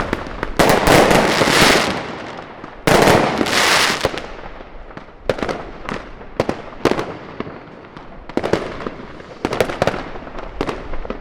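New Year's fireworks and firecrackers going off: a dense stretch of rapid crackling bangs in the first second or two and another about three seconds in, then scattered single bangs.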